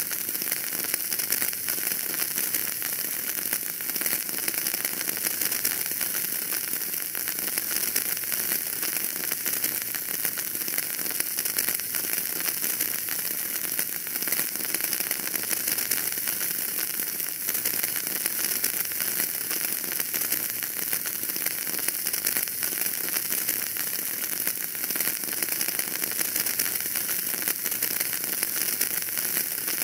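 Fire burning in a fireplace: a steady, dense crackle of many small pops over a hiss.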